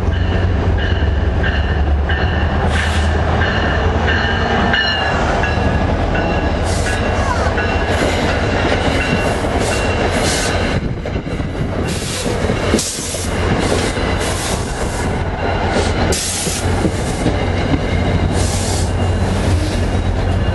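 Diesel passenger-train locomotive running at a station: a steady low engine rumble with faint steady whines over it. From about six seconds in comes a run of short hisses.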